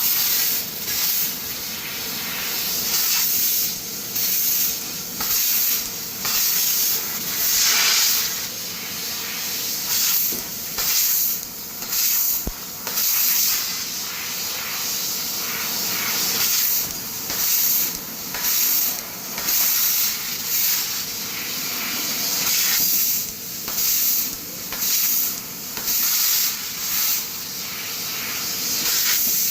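CNC laser cutter cutting steel plate: a steady hiss of assist gas and sparks, swelling into short loud bursts every second or two.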